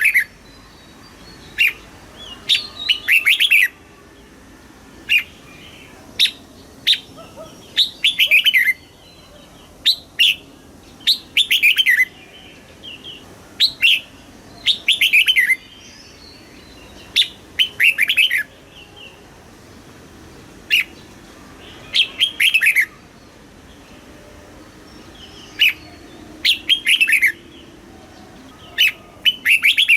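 Red-whiskered bulbul singing: short, bright phrases of a few quick, falling whistled notes. The phrases repeat every second or two with short pauses between them.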